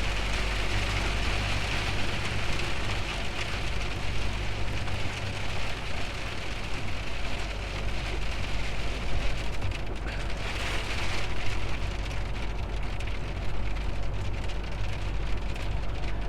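Rain hitting a Scania truck's cab and windscreen over the steady low drone of the truck driving on a wet road, heard from inside the cab.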